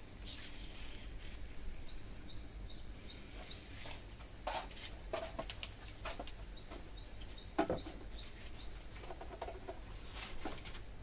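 A bird calling in quick series of short rising chirps, about three a second, in two runs. A few sharp clicks and knocks fall between and under them, the loudest a little past halfway.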